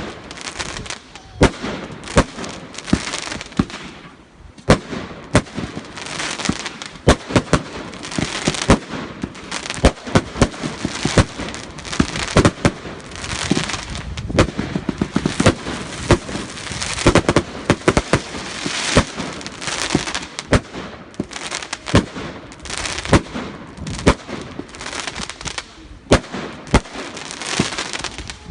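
A fireworks barrage firing: a rapid, irregular string of sharp bangs and pops over a hiss of crackling, with a brief lull about four seconds in.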